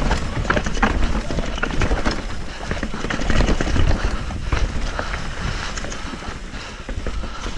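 Mountain bike rolling fast over a rough, rocky trail: a dense, irregular clatter of tyres, chain and frame hitting rocks and bumps over a steady low rumble of wind on the microphone.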